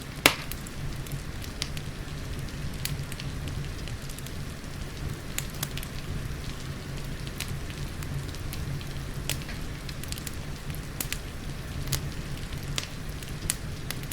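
Wood fire crackling, with scattered sharp pops and one loud pop just after the start, over a steady hiss of rain and a low rumble.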